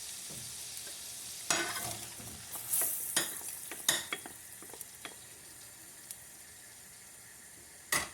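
Chopped onion sizzling in hot oil and leftover shrimp sauce in a frying pan while it is stirred, the utensil scraping and knocking against the pan several times in the first four seconds. After that the sizzle goes on more quietly and evenly.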